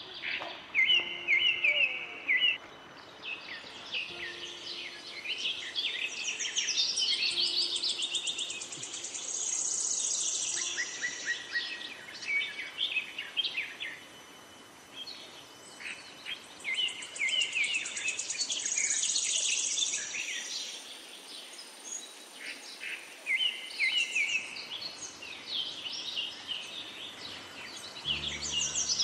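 Several birds singing and chirping, with quick rattling trills and repeated whistled phrases, over a faint steady hiss.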